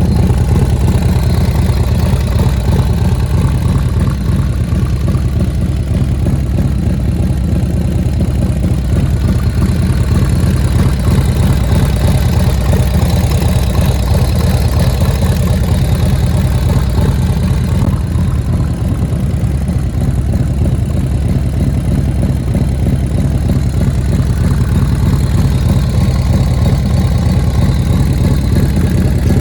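1993 Harley-Davidson FXRS's Evolution V-twin engine idling steadily through a Supertrapp exhaust, a loud, even low-pitched rumble with no revving.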